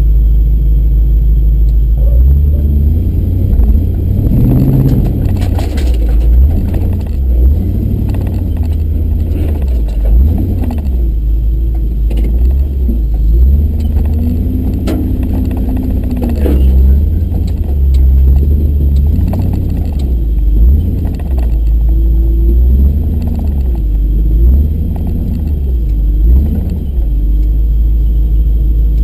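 Truck engine running at low speed over a rough trail, its revs rising and falling, with scattered clunks and rattles.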